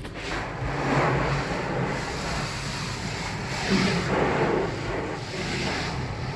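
Water spraying onto a car at a car wash, a hiss that swells and eases several times.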